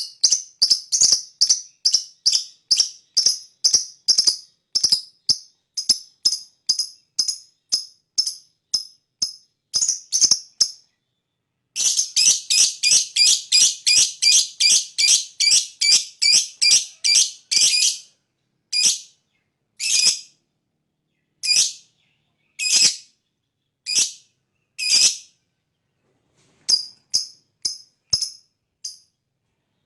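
Lovebird giving a long series of sharp, high-pitched chirps, several a second. About a third of the way in the chirps stop for a moment, then come in a dense, fast run, then slow to single chirps spaced about a second apart before a quicker run near the end.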